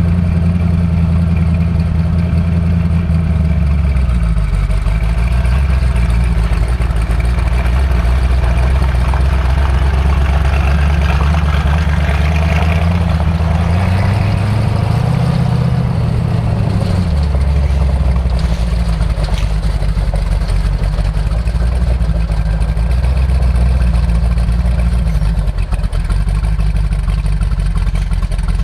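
A twin-turbocharged Chrysler 440 big-block V8 in a rat rod, running steadily, with a rise and fall in pitch about halfway through.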